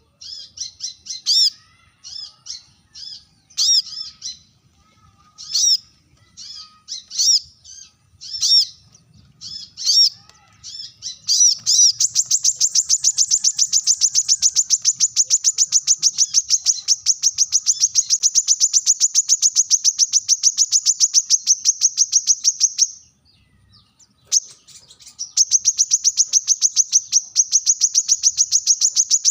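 Brown-throated sunbird singing: a string of sharp, high chirps, then a long, fast, even trill. The trill breaks off for about two seconds near the end and then starts again.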